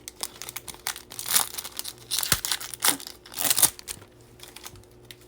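Wrapper of a Bowman baseball card pack crinkling and tearing in several short bursts, between about one and four seconds in, with small clicks of card handling.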